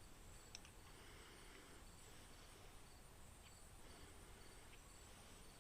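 Near silence: faint room tone with a steady high whine and a few soft clicks.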